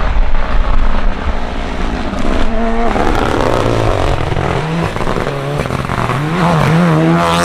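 Rally car engine at full throttle, its note rising and falling through gear changes and held high near the end, over loud road and tyre noise.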